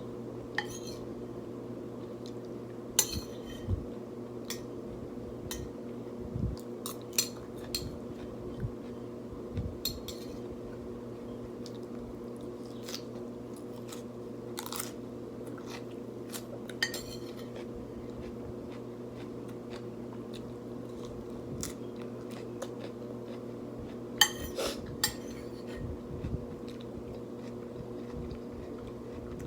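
Scattered short clinks of cutlery on a plate, with chewing and crunching, over a steady low hum.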